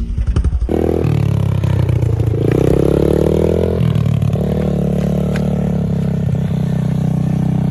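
Small pit bike engine running and revving, cutting in abruptly under a second in, its pitch stepping up and down as the throttle is worked.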